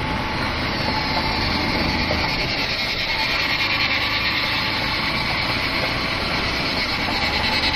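Motorcycle running at a steady pace while being ridden, mixed with a steady rush of wind noise on the microphone.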